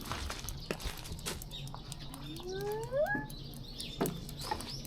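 Wood campfire crackling with scattered sharp pops, and one rising, squeal-like vocal glide from a young child about two and a half seconds in.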